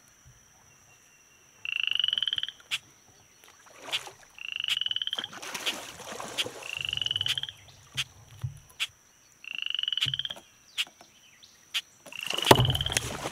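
A frog calling over and over, a short pulsed trill rising slightly in pitch about every two and a half seconds, over a faint steady high whine. A hooked bowfin splashes at the surface beside the kayak about midway, and again loudly near the end.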